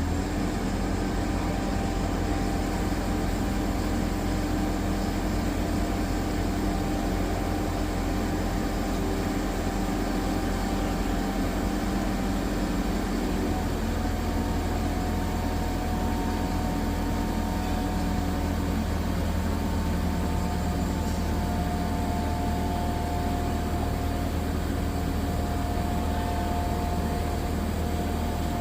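Diesel engine of a Manitou MRT3570 rotating telehandler running steadily with a low hum, its tone shifting about halfway through.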